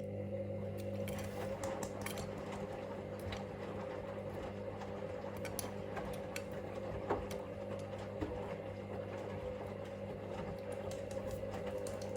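Hoover Link washing machine's drum motor running steadily as it turns the drum for one tumble stroke of the pre-wash, a low hum with scattered light ticks and knocks from the load. The hum starts abruptly and stops just after the end.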